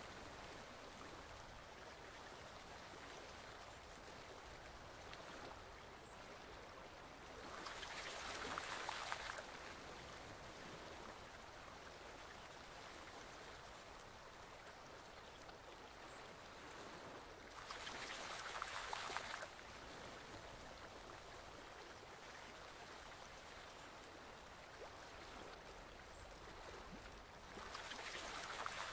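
Forest stream flowing steadily, with a louder rush of water swelling up for about two seconds three times, about ten seconds apart.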